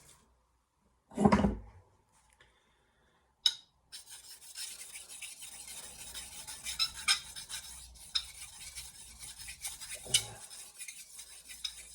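Steel Santoku knife edge being scraped back and forth against a hard surface to deliberately blunt it before sharpening: a continuous rasping scrape with sharp ticks, starting about four seconds in. It is preceded by a low thump about a second in and a single sharp click a little later.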